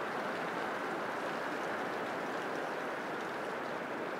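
Heavy rain pouring steadily, a constant rushing hiss.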